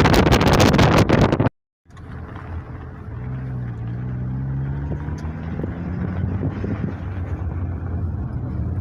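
Wind buffeting the microphone, cut off abruptly after about a second and a half. After a short gap comes a steady low motor hum that briefly dips in pitch and comes back up.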